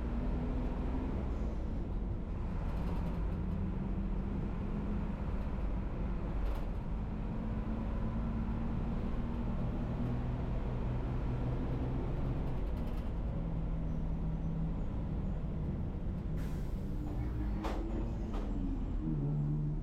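Inside a city bus under way: the engine runs with a steady low rumble and road noise, its note rising and falling as it drives. A few short sharp knocks or hisses come through, the clearest near the end.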